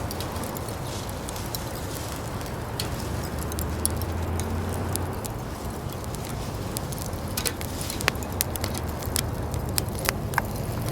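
Charcoal fire in a tabletop fire pit crackling, with scattered sharp pops over a steady hiss; the pops come more often in the second half. A low steady hum runs underneath.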